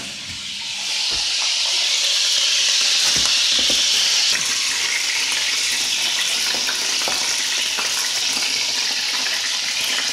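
Frozen parboiled chips frying in hot beef dripping: a loud, steady sizzling hiss that swells about a second in and eases slightly around four seconds, with a few light knocks.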